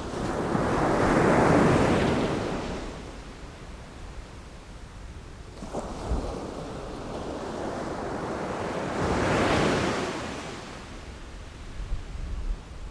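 Sea waves breaking and washing up the shore in two slow surges, the first cresting about a second and a half in, the second around nine seconds. Short low buffets of wind on the microphone come midway and near the end.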